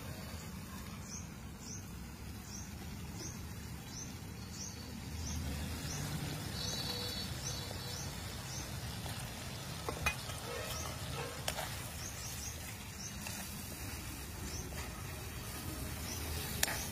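Onion-tomato masala with drumstick pieces sizzling and bubbling in a steel kadhai over a wood fire. A steel spoon knocks against the pan a few times, about ten seconds in and near the end. A short high chirp repeats steadily in the background.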